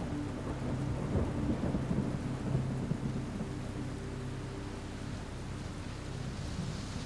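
Thunder rumbling over steady rain, the rumble heaviest in the first few seconds and then easing off.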